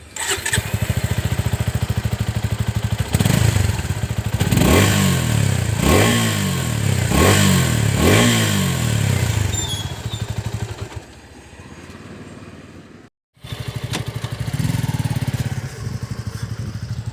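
Suzuki Gixxer SF 250's single-cylinder engine heard through its exhaust, idling with a pulsing beat. From about three seconds in, the throttle is blipped four or five times, each rev rising and falling, and the engine then settles back to idle. There is a brief break near the end, after which it idles steadily.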